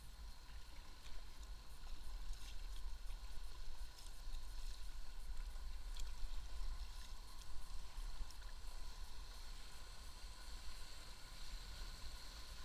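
Water rushing and splashing around a kayak on a river, with a few sharper splashes and a steady low rumble.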